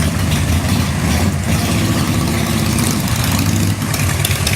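Motorcycle engines idling with a steady low rumble.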